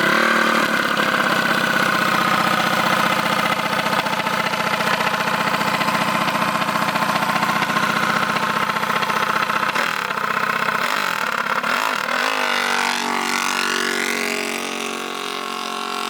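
Small petrol engine of an off-road recreational vehicle running at a steady high pitch for about ten seconds. Its note then dips and wavers, and near the end the pitch glides as the revs change.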